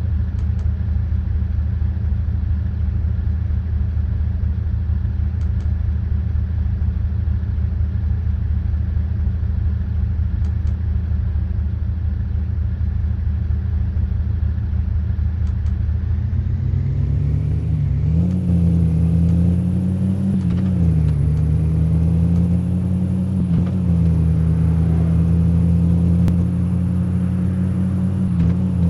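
Car engine running at a steady low drone, then from about halfway its note rises as it picks up revs, dipping and climbing again a few times as the car accelerates.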